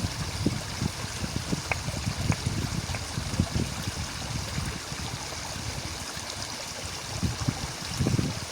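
A stream flowing and gurgling, with irregular low splashy pulses over a steady rush of water and a few brief high ticks.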